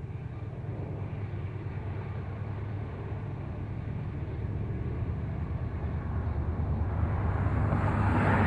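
A train approaching, its low, steady rumble growing gradually louder, with a rising rush of wheel and track noise near the end as it draws close.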